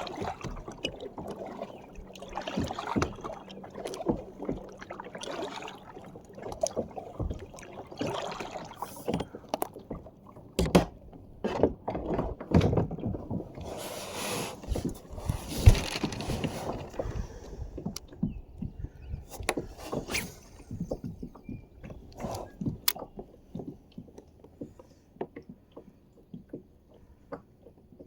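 Kayak on the water: irregular knocks and clunks against the hull mixed with splashing and sloshing water, busiest and loudest about halfway through, then thinning out to sparse light knocks near the end.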